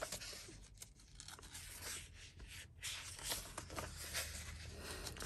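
Pages of a paperback coloring book being turned and handled: paper rustling, with a few sharper flicks as pages turn over.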